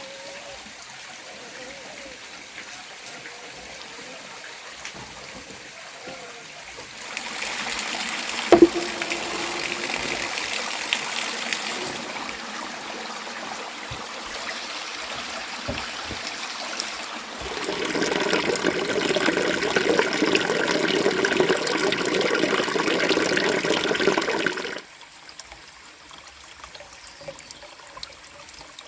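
Running water trickling and flowing. It grows louder in two stretches, the second a fuller rush that cuts off suddenly, with a single sharp click in the first loud stretch.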